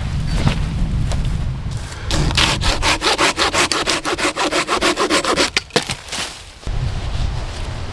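Hand saw cutting through wood in quick, even back-and-forth strokes, starting about two seconds in and stopping about three and a half seconds later.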